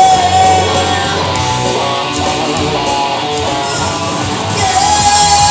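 Live band music: guitar playing, with a long held high note at the start and another near the end.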